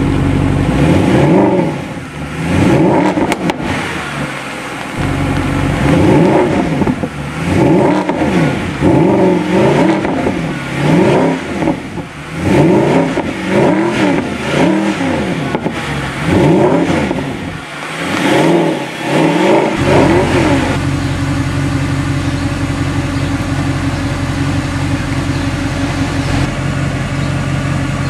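Mercedes-Benz SLS AMG's naturally aspirated V8 revved over and over in quick blips, each rising and falling in pitch, then settling about twenty seconds in to a steady idle.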